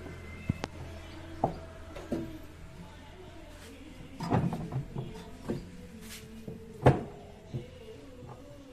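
Scattered, irregular clicks and knocks of tools and machine parts being handled, the loudest a sharp knock about seven seconds in, over a steady low hum.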